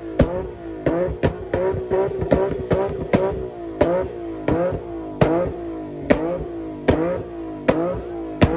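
Car engine being revved in quick, repeated throttle blips: each blip jumps up sharply, then the pitch falls away before the next, at uneven intervals of roughly half a second.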